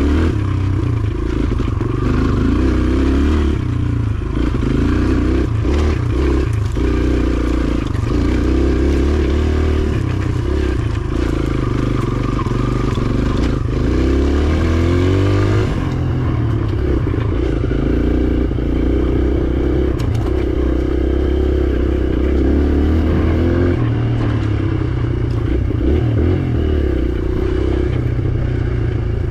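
Dirt bike engine running as the bike is ridden along a singletrack trail, the revs rising and falling with the throttle, with a steep climb in revs about fifteen seconds in.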